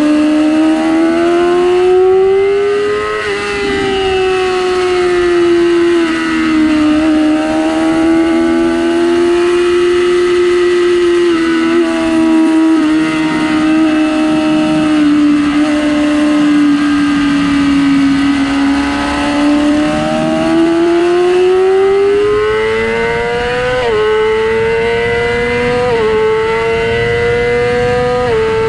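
2006 Yamaha R6 inline-four engine running hard at high revs, its pitch rising and falling with the throttle. Near the end it climbs through the gears, each quick upshift dropping the pitch in a short step. A steady rush of noise runs underneath.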